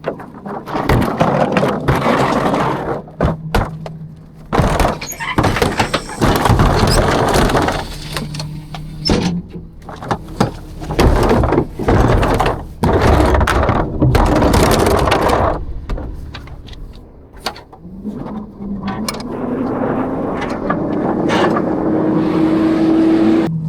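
Rear-loader garbage truck emptying a dumpster: repeated crashes and bangs of metal and falling trash. In the last few seconds a steady mechanical tone rises in pitch as the truck's engine and hydraulics run up.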